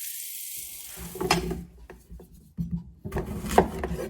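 Coconut flour pancakes sizzling in a frying pan. The sizzling fades about a second in and is followed by irregular scraping and rubbing strokes with light knocks, from hands working a kitchen utensil against a wooden surface.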